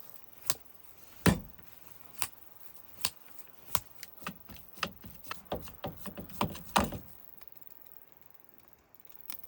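About a dozen sharp knocks and thumps as ground beef is smashed into burger patties. They come faster toward the end and stop about seven seconds in.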